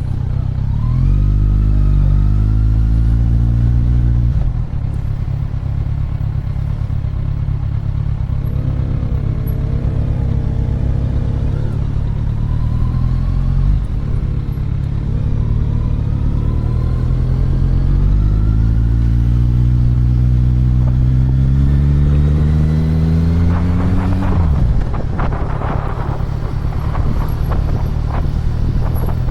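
Motorcycle engine running under way, its pitch climbing twice as it accelerates, with heavy wind rumble buffeting the microphone.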